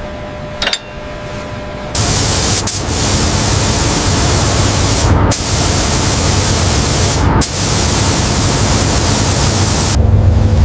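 High-pressure spray jet hissing loudly, switched on abruptly about two seconds in after a faint click. It cuts out three times for a split second, then changes to a lower rumble near the end.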